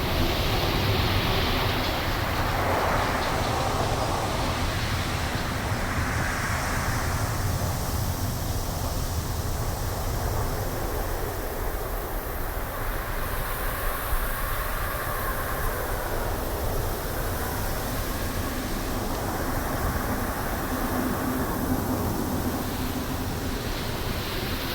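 Wind blowing through trees in gusts: a steady low rumble under rushing swells that rise and fade every several seconds.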